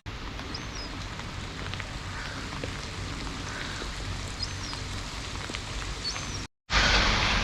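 Steady pouring rain falling, with scattered drip ticks and three short high chirps. After a brief gap in the sound near the end, the rain is louder.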